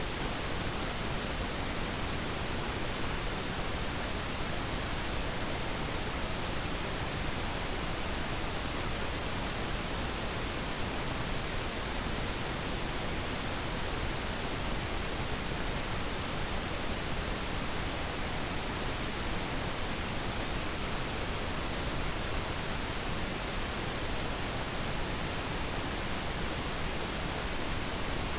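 Steady pink noise: an even, unchanging hiss with no other events.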